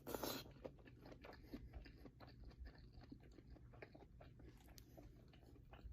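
Faint chewing and mouth sounds of someone eating imitation crab: scattered soft clicks, with a brief louder patch right at the start.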